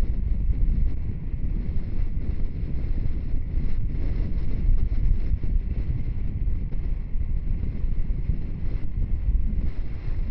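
Wind rushing over the microphone of a moving motorcycle, a steady low rumble of wind and road noise with no distinct engine note.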